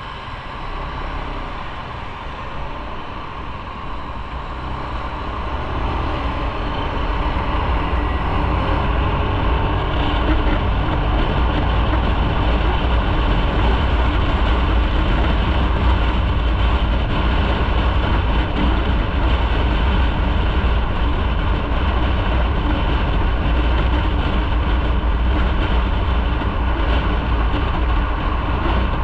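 Motorcycle riding at speed: a steady deep rumble of wind buffeting and road and engine noise. It grows louder over the first several seconds, then holds steady.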